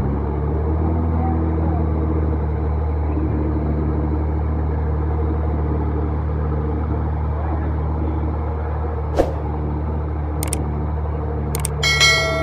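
A vehicle engine idling steadily. A few sharp clicks come late on, and a short ringing tone sounds near the end.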